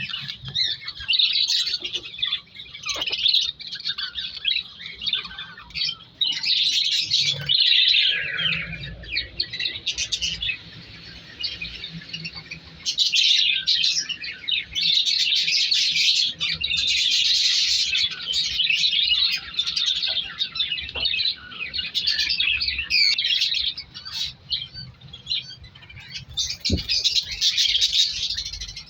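Budgerigars chattering and chirping in bouts of rapid, high warbling with short squawks.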